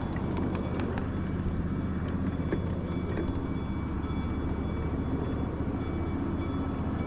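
1/8-scale miniature ride-on train running along its track: a steady low rumble with sharp, evenly spaced clicks, about two to three a second.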